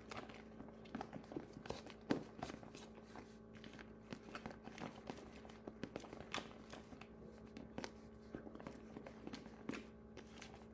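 Faint, irregular clicks and scrapes of a kitchen utensil stirring and spreading a thick marshmallow-cream mixture, over a steady low hum.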